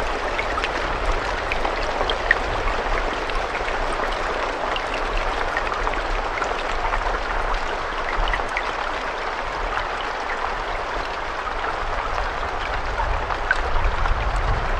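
Steady rain with individual raindrops ticking through the hiss, and a low rumble that swells near the end.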